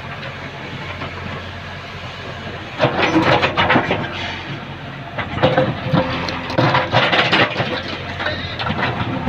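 JCB backhoe loader's diesel engine running steadily, with two louder stretches of rattling and clanking, about three and six seconds in, as the excavator works.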